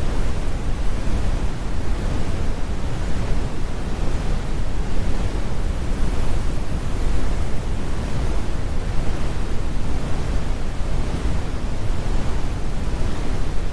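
Synthetic brown noise: a steady, deep rumbling hiss, strongest in the low end with the high frequencies rolled off, even and unchanging throughout.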